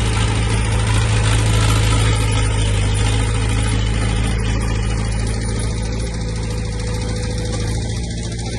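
Heavy earthmoving machine's diesel engine running steadily, its higher clatter easing off over the second half.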